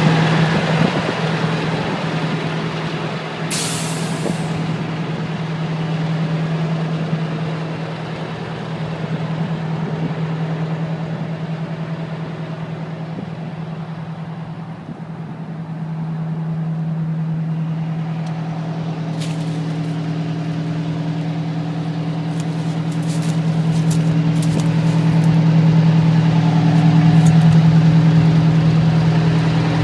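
Fire truck's Detroit Diesel Series 92 two-stroke diesel engine running steadily, with a short hiss of air about four seconds in. About halfway through a second, higher steady tone joins the engine sound, and a string of faint clicks follows.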